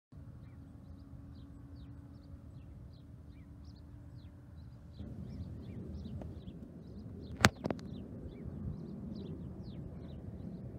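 Small birds chirping over and over in short falling notes, over a low steady outdoor rumble that grows a little louder about five seconds in. A single sharp click about seven and a half seconds in is the loudest sound.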